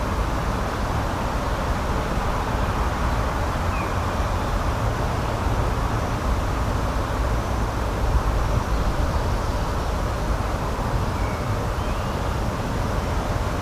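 Steady, unbroken outdoor rushing noise, with a few faint short chirps above it.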